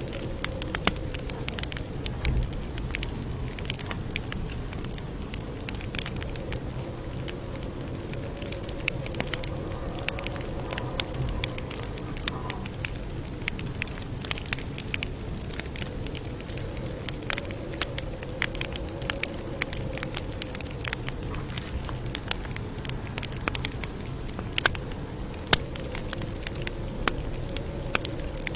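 Campfire crackling: a steady low rush of burning wood with frequent sharp, irregular pops and snaps.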